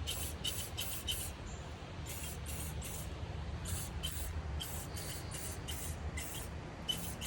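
Aerosol spray paint can spraying in short, quick bursts of hiss, a few per second, with brief pauses between runs, over a steady low rumble.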